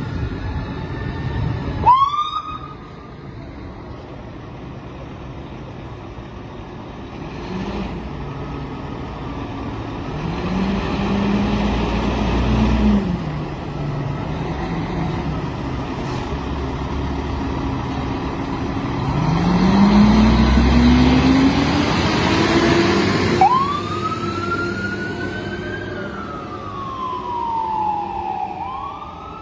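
Fire apparatus responding with sirens. A siren chirps sharply upward about two seconds in. Through the middle, two loud stretches of heavy low rumble rise in pitch as the trucks go past. In the last third a siren wail climbs, falls slowly, then starts rising again.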